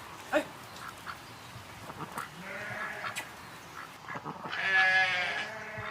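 Goat bleating twice: a short, softer bleat about two and a half seconds in, then a louder, quavering bleat lasting about a second near the end.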